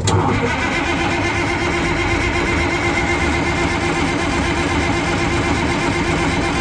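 Fiat-Allis HD21B bulldozer's diesel engine starting on its push-button starter after standing unused a very long time: a loud, steady mechanical running sound that comes in suddenly and holds level.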